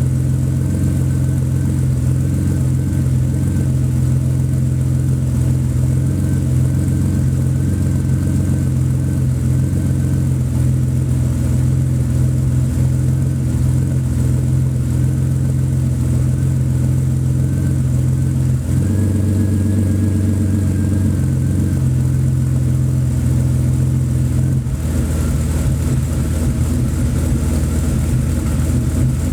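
BMW 850 (E31) V12 idling steadily while warming up after a cold start; its note shifts slightly twice, about two-thirds of the way in and again near the end.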